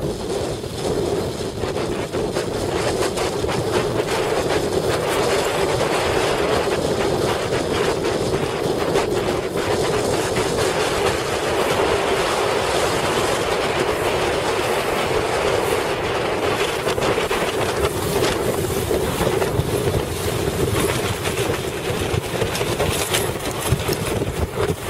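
A boat under way through choppy water in strong wind: a steady drone with irregular knocks and slaps, and wind buffeting the microphone.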